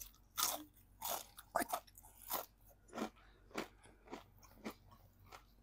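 Crunching and chewing of crispy fried chicken breading, close to the microphone, with a crunch about every half second.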